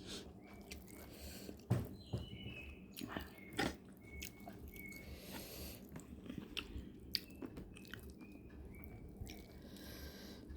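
Close-up eating sounds: a person biting and chewing fried fish, with irregular sharp crunches and clicks, the loudest about two and three and a half seconds in.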